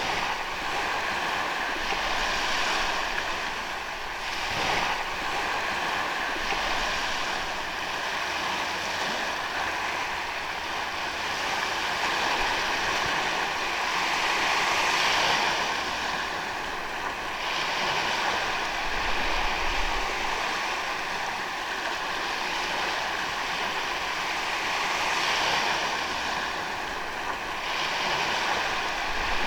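Ocean waves washing onto a sandy beach, a continuous rush of surf that swells and ebbs every few seconds.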